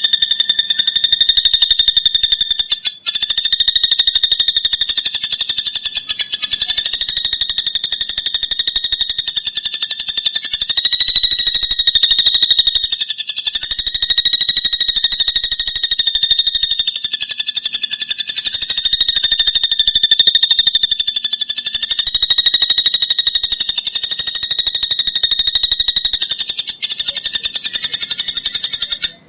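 A recorded animal call used as a song tutor for a cendet: a continuous, rapidly pulsing, high-pitched buzzing trill, steady in pitch with a slight waver, with a brief break about three seconds in and again at the end.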